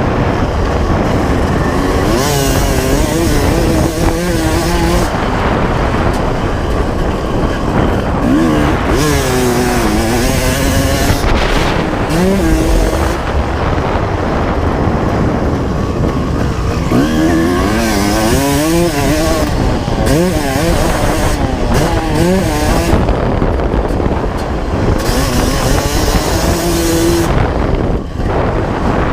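1995 Honda CR250R two-stroke single-cylinder engine being ridden, revving up and dropping back again and again as the throttle is opened and closed. Heavy wind rumble on the microphone runs underneath.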